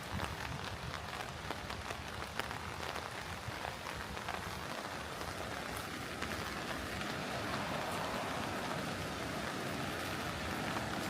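Rain falling on surfaces close by, many small drop ticks over a steady hiss. From about halfway a steady rushing sound slowly swells.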